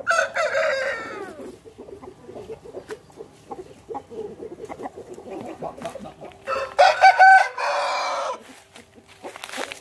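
Aseel rooster crowing twice, a short falling crow at the start and a louder, longer crow about two-thirds of the way through, with soft clucking and scattered small clicks between.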